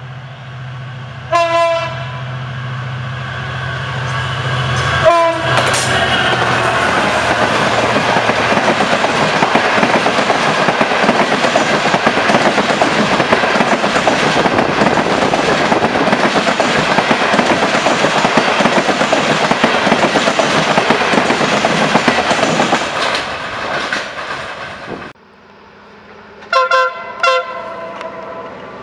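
Diesel-hauled long-distance passenger train sounding two horn blasts over a low engine drone, then passing close by with a long loud rush of wheels on rail. The rush cuts off suddenly, and near the end an approaching diesel locomotive gives a few short horn toots.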